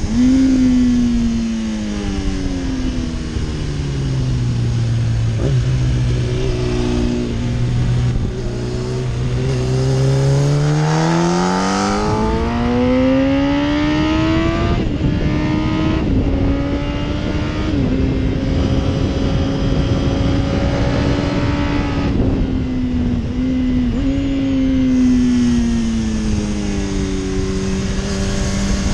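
Yamaha R1 (RN12) crossplane inline-four engine at track speed. Its pitch falls and steps down as the rider shuts off into a slow corner and holds low for several seconds. It then climbs steadily as he accelerates out, holds steady, and drops again to a lower steady note near the end.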